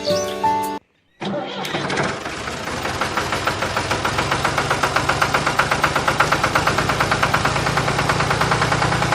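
Miniature diesel engine starting about a second in and settling into a fast, even running beat.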